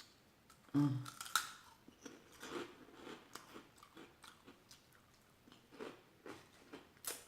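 A person chewing food close to the microphone: irregular soft, wet mouth clicks and smacks, with a brief low hum about a second in.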